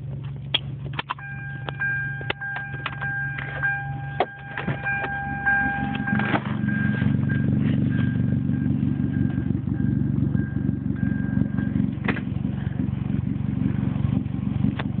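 Turbocharged 2.0-litre four-cylinder of a Hyundai Tiburon idling through a 3-inch exhaust, a low steady drone that grows louder and fuller about five seconds in. A steady high tone sounds over it for several seconds, along with scattered clicks.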